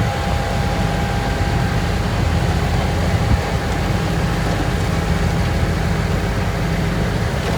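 Heavy diesel engine of an earthmoving machine running steadily: a low drone with a thin, steady whine above it.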